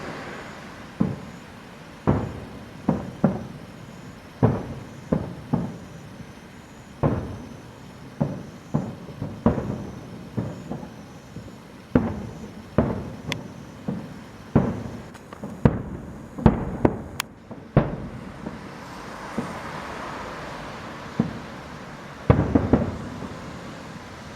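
Aerial firework shells bursting: an irregular series of dozens of bangs, often one or two a second, each trailing off in a rumbling echo.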